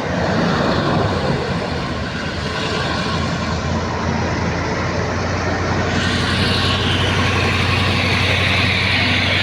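Old truck's engine running steadily under load on a hill climb. A higher rushing noise comes in about six seconds in and carries on.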